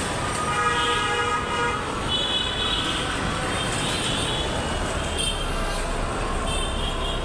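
Busy city street traffic running steadily, with vehicle horns sounding several times: a longer horn about half a second in, then shorter high horn toots through the rest.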